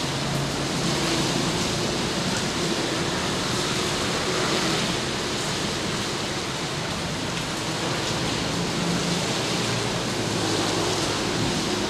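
Steady rain falling, an even hiss with no thunder, over a faint low hum.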